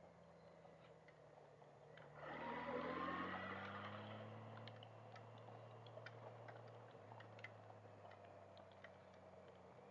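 Motorcycle engine running, faint and muffled, with a steady hum that drifts slowly in pitch. About two seconds in it surges louder with rising pitch for a second or two, as the bike accelerates, then settles back.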